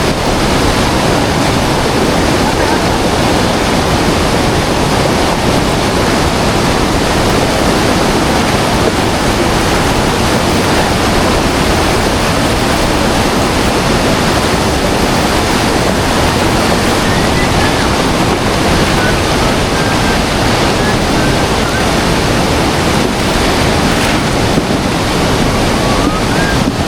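A large river rushing, a loud steady wash of water with no let-up. A few faint high chirps come in over it in the second half.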